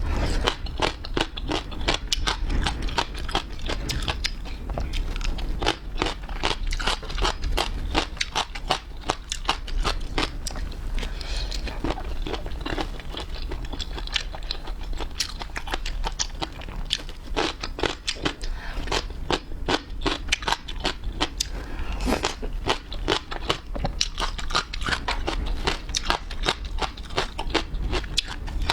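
Close-miked eating of seafood: continuous crunching, chewing and wet mouth clicks, irregular and dense throughout.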